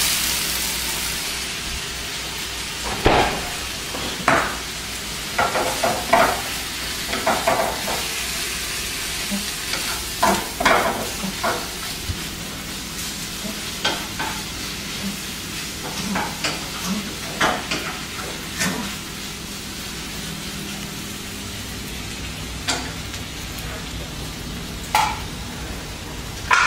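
Turkey bacon sizzling in a frying pan with a steady hiss, and a utensil stirring it in repeated short scrapes and clacks against the pan, frequent through the first two-thirds and only now and then near the end.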